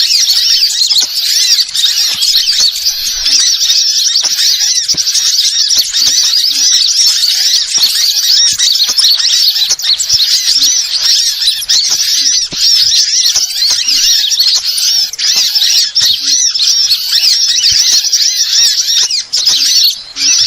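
Bird lure recording: dense, rapid, high-pitched chirping and warbling of songbirds that runs on without a break and dips briefly near the end.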